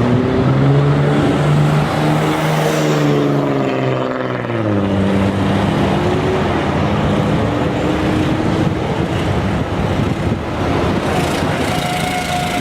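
A heavy vehicle's engine running under load. Its pitch falls from about two to five seconds in, then holds steady.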